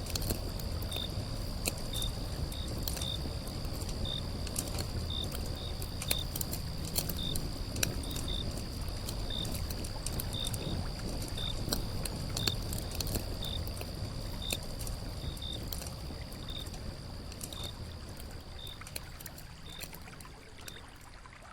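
Gentle lapping and trickling water, with a thin steady high tone and short high chirps repeating irregularly over it, fading out toward the end.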